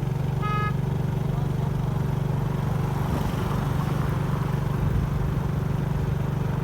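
Motorbike engine running steadily as the bike is ridden, a constant low hum under an even rushing noise.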